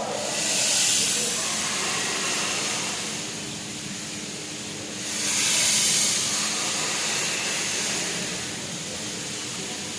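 Steam locomotive venting steam with a loud hiss that swells up twice, about a second in and again about five seconds later, each lasting a second or two.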